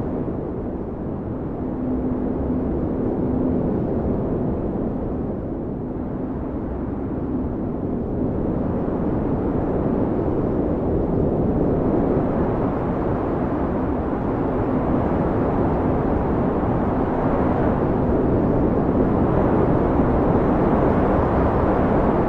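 Blizzard wind howling, a steady deep rush of noise that swells and eases in gusts and grows stronger about a third of the way through.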